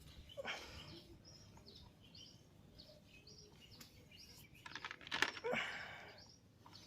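Small birds chirping in the background, with two short scraping noises from work by hand, about half a second in and again around five seconds in, the later one the loudest.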